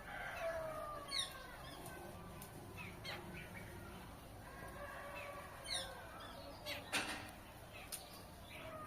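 Birds calling: several short falling whistles and chirps, with a few sharp clicks, the loudest near the seven-second mark.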